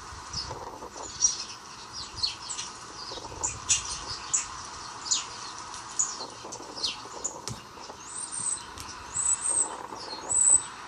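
Small birds chirping: many short, quick chirps, a few each second, with higher, slightly longer twittering calls near the end.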